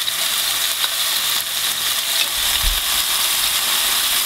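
Minced pork-and-chicken cutlets sizzling steadily as they fry in hot oil and butter in a pan, with one brief low thump about two and a half seconds in.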